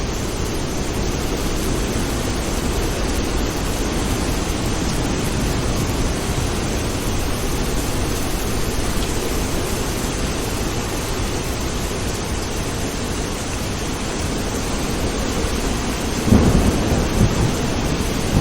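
Steady heavy rain with a low, continuous rumble of thunder. About sixteen seconds in, a sudden louder burst of thunder rumbles for a second or two.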